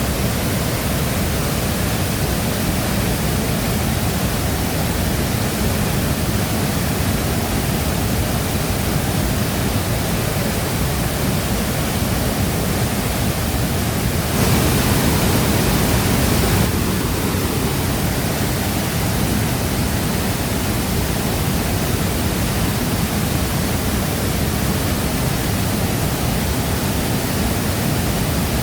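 Waterfall pouring: a steady, dense rush of falling water, heaviest in the low range. Near the middle it swells louder and brighter for about two seconds, then settles back.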